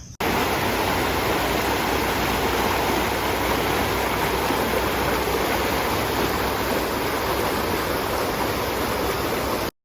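Steady rushing water, a creek or falls, that starts and stops abruptly.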